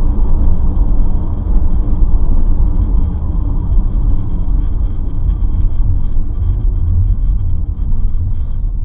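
Loud, steady low rumble of a vehicle in motion, road and engine noise without distinct events.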